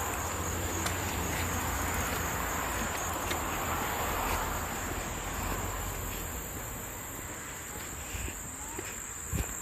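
Steady, high-pitched chorus of insects such as crickets, droning without a break over a low, even rushing noise.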